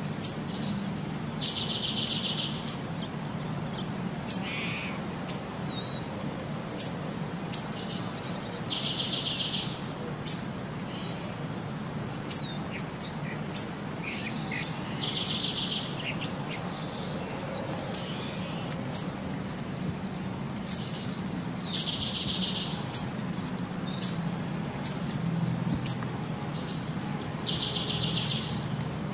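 Birdsong: short, very high chirps about once a second, with a buzzy trill of about a second heard five times, six to seven seconds apart, over a steady low rumble.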